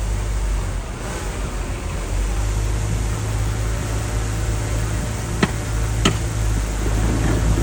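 Heavy earthmoving machinery's diesel engine running steadily with a low drone, with two sharp metallic clanks about a second apart in the second half.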